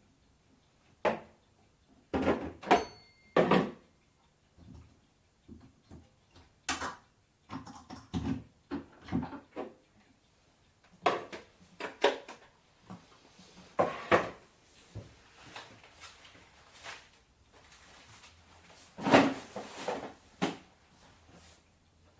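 Kitchen handling sounds: a scattered series of knocks and clatters of dishes, utensils and cupboard or drawer fronts, with a short ringing clink about three seconds in and a longer, louder clatter near the end.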